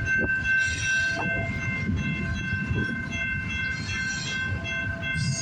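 CN freight train's cars rolling past: a steady low rumble with a steady high-pitched ringing tone over it and brief swells of hiss.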